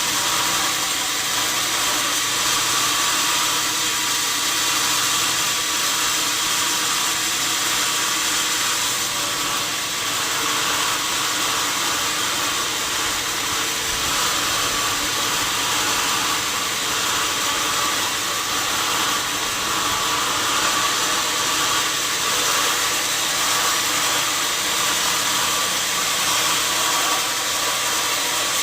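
Sawmill saw running steadily: an even, unbroken machine noise, heavier in the high end, with no pauses or knocks.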